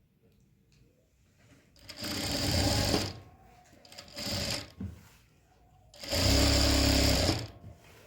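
Sewing machine stitching in three short runs, about a second, under a second, then about a second and a half, with brief stops between.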